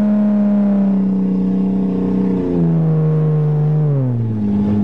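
1982 Toyota Cressida's engine running under way at steady revs. The pitch drops in a step about halfway through, then falls away further near the end as the revs come down.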